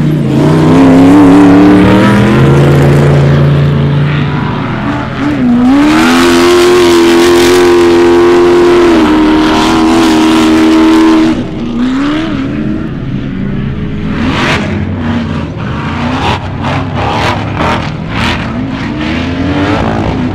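Ultra4 off-road race car engines revving hard through changing throttle, with one engine held at high revs for several seconds in the middle before easing off. In the second half, uneven throttle mixes with a run of short sharp cracks and knocks.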